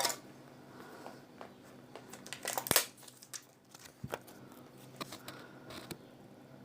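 Small parts of a dismantled phone being handled by hand: scattered light clicks, taps and rustling, with the sharpest tap about two and a half seconds in.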